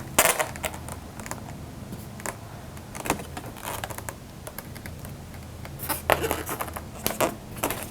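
Faint handling noise: scattered light clicks and rustles, over a low steady hum.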